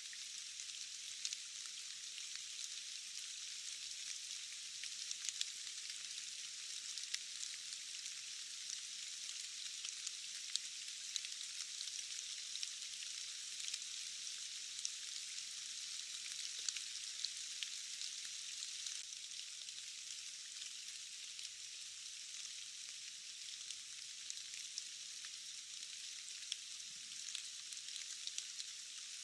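Steady rain, a high, even hiss with many scattered sharp ticks of drops.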